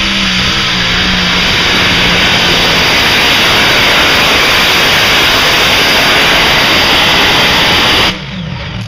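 Modified pulling tractor's engines at full throttle during a pull, a very loud, steady roar that cuts off abruptly near the end.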